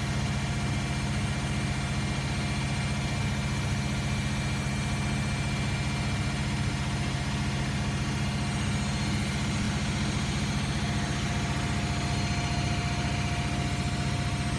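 Washing machine running, a steady low hum with a faint steady whine above it and no change throughout.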